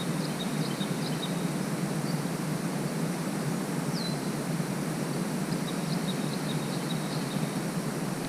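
Steady outdoor background noise with faint, scattered high chirps and one short downward whistle about four seconds in.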